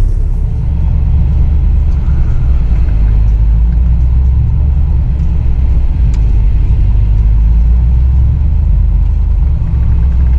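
Full-size truck driving on a trail, its engine and drivetrain giving a loud, steady low rumble.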